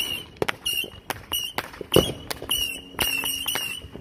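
Fireworks going off in a rapid, irregular series of sharp pops and bangs, about three a second.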